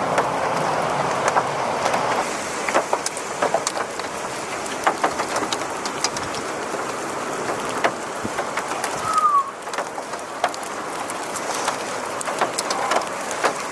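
Heavy rain falling in a thunderstorm, a steady wash with many scattered sharp taps of drops striking a hard surface. A brief falling whistle about nine seconds in.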